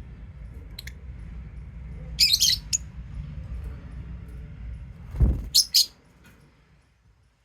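Pet lovebirds giving short, high chirps: one about a second in, a quick cluster a couple of seconds later, and two more after a low thump near the end. A low steady rumble runs underneath and drops away about six seconds in.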